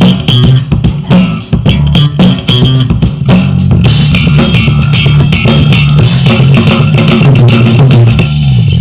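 Loud rock band playing: drum kit with a busy run of hits, bass guitar and electric guitar, the bass and guitar amplifiers being put through their paces at high volume.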